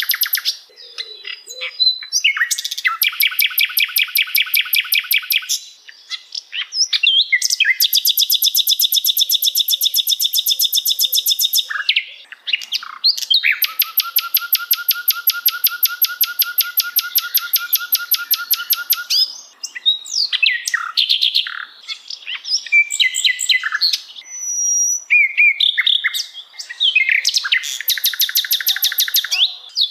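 Songbird song from a bird-training (masteran) recording: three long rapid trills of evenly repeated notes, each lasting several seconds, broken by shorter varied chirps and whistles.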